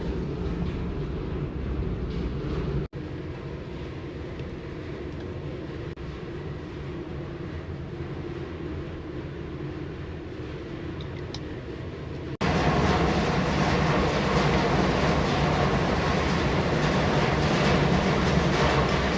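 Steady low rumble of a car ferry under way, engine drone mixed with rushing noise, in three cut-together stretches; it jumps louder about twelve seconds in.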